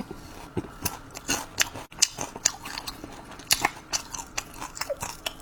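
A person chewing crispy guo bao rou, battered and fried pork tenderloin, with many quick, irregular crunches.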